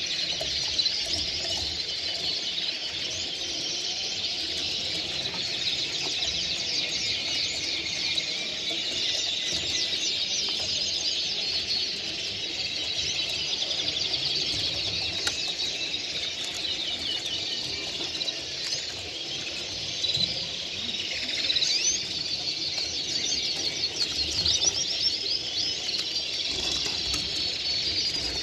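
Many caged songbirds singing at once: a dense, continuous chorus of fast trills and chirps.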